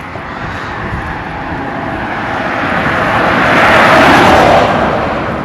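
A vehicle passing close by on the road: its engine and tyre noise builds up, peaks about four seconds in, then fades away, over wind rumbling on the microphone.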